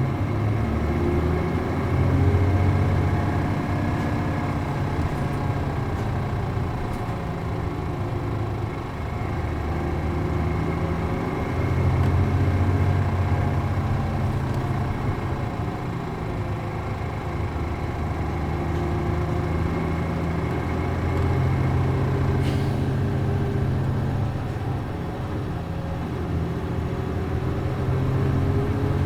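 Inside a city bus with an MD92TJ diesel engine, recorded on board as it drives on. The engine pulls hard several times, with rising pitch through each pull and easing off in between, as the bus works up through its gears. A short hiss of air comes about three-quarters of the way through.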